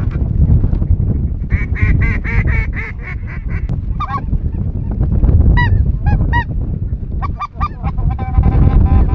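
Waterfowl calling: a quick run of about eight honking calls, then single and triple arching goose calls, with a held note near the end, over a steady low rumble.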